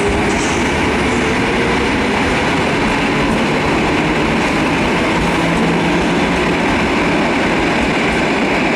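EN57AL electric multiple unit running along the station track: a loud, steady rumble of wheels and running gear with faint motor tones.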